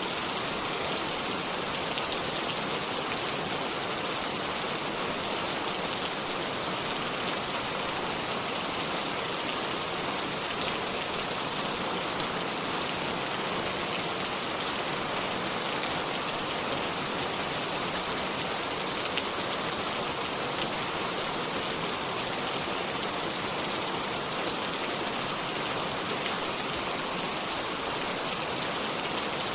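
Steady rainfall: a dense, even hiss of rain with scattered individual drop ticks, holding constant throughout.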